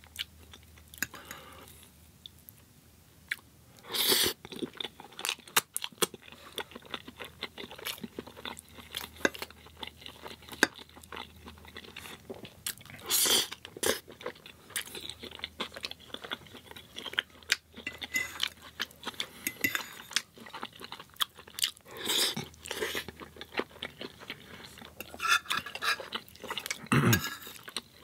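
Close-up eating sounds of a person biting into and chewing crunchy fried food, vegan tots and samosas: steady wet chewing clicks, with a louder crunchy bite every several seconds.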